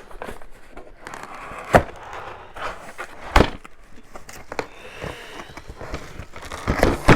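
Cardboard and plastic packaging being handled and rustled, with three sharp knocks: one just under two seconds in, one about three and a half seconds in, and one near the end.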